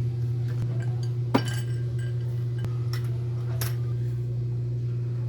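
Metal clinks and taps of tools and motorcycle front-fork parts being handled, the sharpest about a second and a half in, over a steady low hum.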